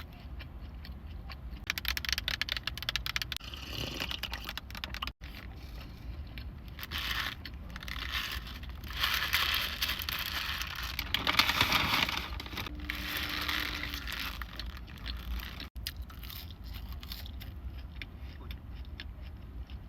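Close-miked eating: crunchy food being bitten and chewed, in several crackling bursts.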